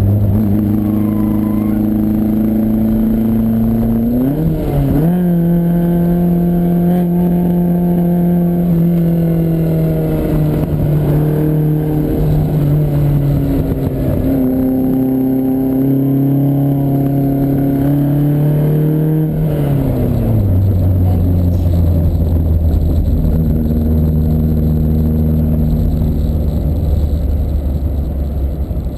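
Lancia Fulvia Rally S prototype's narrow-angle V4 engine under way, its note rising and falling as the car is driven. The pitch jumps about four seconds in and climbs again later, then drops sharply to a lower steady note about twenty seconds in.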